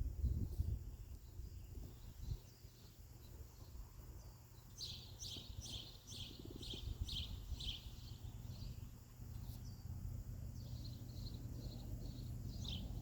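A small bird chirping in quick runs of short, high notes, one run about five seconds in and another near the end, over a steady low background rumble.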